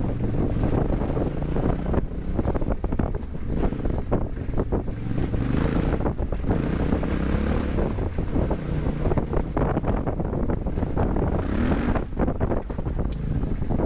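Yamaha Ténéré 700's parallel-twin engine through an Akrapovic exhaust, running under way with the revs rising and falling, and wind buffeting the microphone.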